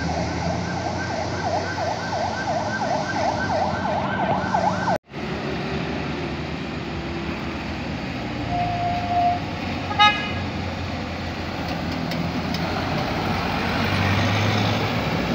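A vehicle's siren-type horn warbling rapidly, sweeping up and down about four times a second over engine and road noise, then cut off abruptly about five seconds in. Afterwards the road noise continues, with a short steady horn note and a brief beep a little later.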